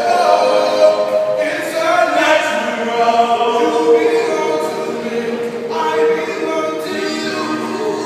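A group of street singers singing a cappella in harmony, several voices holding long notes together and moving between chords.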